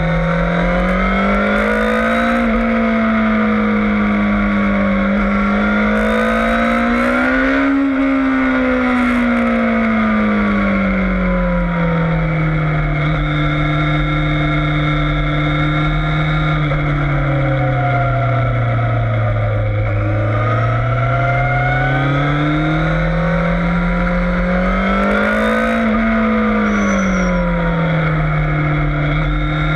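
Yamaha FZS600 Fazer's inline-four engine under way on a race track, its pitch climbing and falling with the throttle: it rises to a high about eight seconds in, winds down to its lowest around twenty seconds, then climbs again before levelling off near the end.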